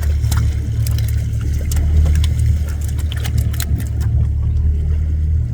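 A boat's motor running with a steady low rumble, with scattered light clicks and knocks over it.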